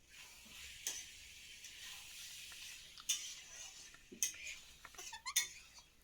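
Pet rose-ringed parakeet moving about its cage, with scattered sharp metallic clicks and clinks over a light hiss, and a short rising squeak near the end.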